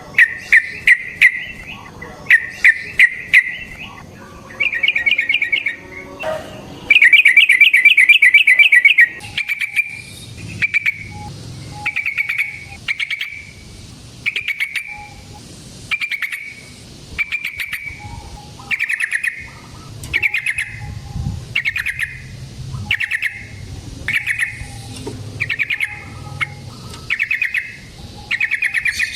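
Yellow-vented bulbul (trucukan) singing: bubbly chattering phrases, a long fast rolling run about seven seconds in, then short phrases repeated about once a second.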